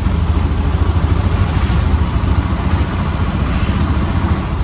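A loud, steady low engine rumble, like a vehicle running.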